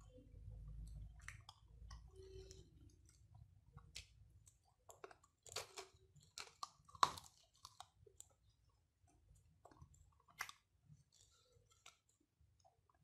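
Chewing and wet lip smacks of a person eating rice with his fingers, with scattered sharp mouth clicks. The loudest smack comes about seven seconds in.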